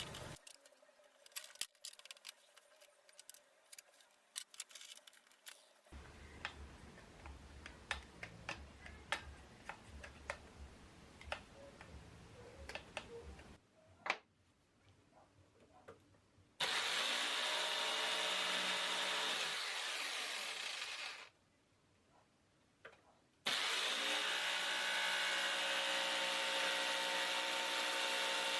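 Faint clicks and scraping of hand work for roughly the first half. Then an electric jigsaw runs steadily, cutting acrylic sheet with a lubricated blade through oiled masking tape, in two stretches with a brief break between them.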